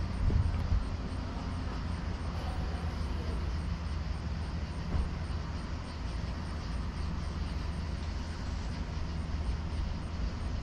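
A vehicle engine idling steadily: a low, even rumble that does not change.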